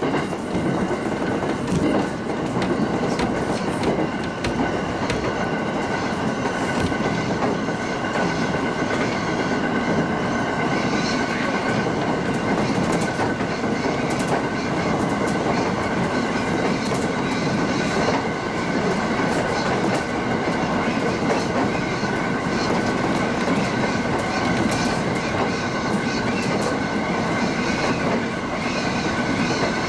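JR Tsugaru Line local train running along the track at speed, heard from on board: a steady rumble of wheels on rail with a steady high tone above it and a few faint clicks.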